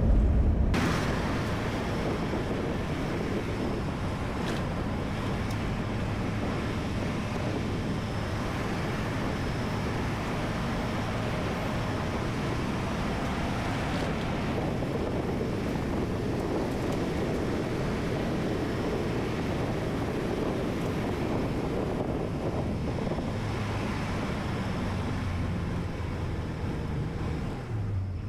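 Rollback tow truck driving on the road, heard from inside the cab: a steady rush of road and wind noise over the low hum of the engine.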